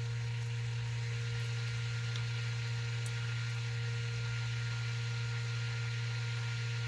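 A steady low hum with a fainter, higher steady tone above it, unchanging throughout.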